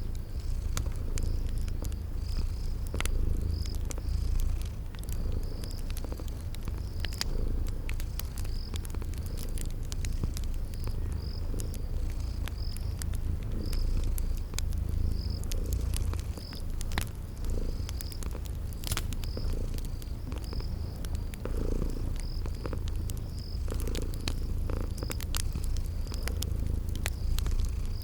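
Close cat purring, a steady low rumble throughout, layered with the sharp pops and crackles of a wood fire and a cricket chirping in an even, repeating rhythm.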